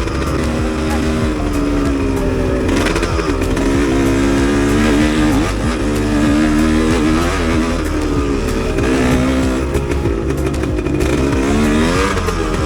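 Enduro motorcycle engine running while being ridden, its revs rising and falling over and over with the throttle.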